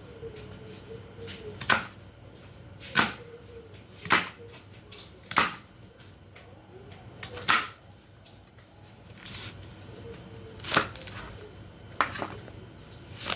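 Knife chopping onion on a cutting board: slow, separate chops, about nine strokes a second or two apart.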